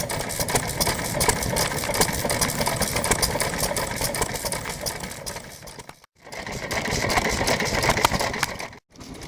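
Vintage stationary engine (hatsudoki) running steadily with a rapid, even knocking beat. The sound cuts out completely for a moment about six seconds in and again near the end.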